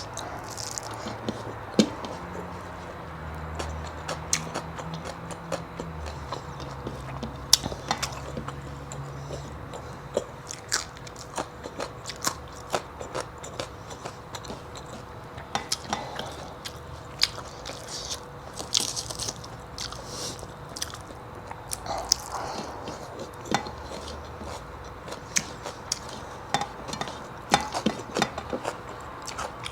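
A person eating close to the microphone: chewing and crunching food, with many irregular sharp clicks and crackles. A faint steady hum runs underneath.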